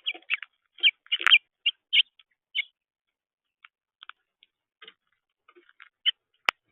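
Small birds chirping in short, irregular high notes, busier at the start and near the end, with one sharp click near the end.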